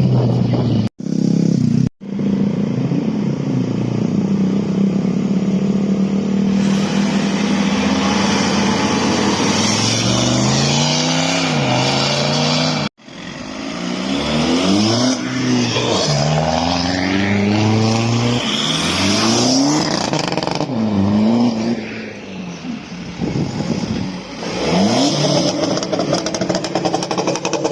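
Car engines revving hard and accelerating, their pitch climbing and falling again and again as drivers rev. The sound drops out abruptly for a moment about one, two and thirteen seconds in, where short clips are joined.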